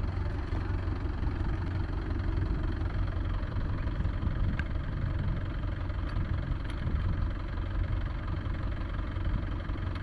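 Tractor diesel engine running steadily at an even speed, with a few faint clicks over it.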